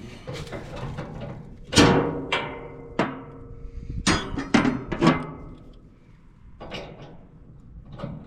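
Hammer blows on steel: about eight sharp, uneven strikes, each ringing briefly, the loudest about two seconds in.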